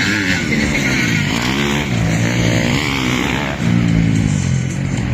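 Motocross dirt bike engines revving, their pitch climbing and dropping again and again as the riders work the throttle.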